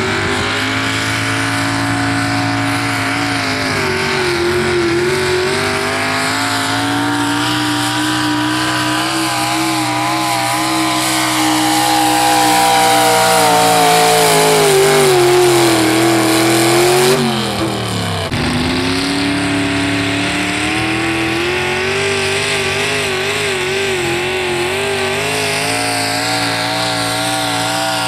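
Pickup truck engine at high revs under full load, pulling a weight sled; the note wavers as the truck bogs and hooks. About seventeen seconds in, the revs fall sharply, then climb back up and hold high.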